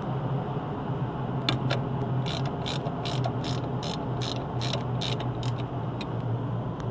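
Ratchet wrench clicking in quick, even strokes, about four or five clicks a second, as a bolt is tightened down. It starts about a second and a half in and runs on to near the end.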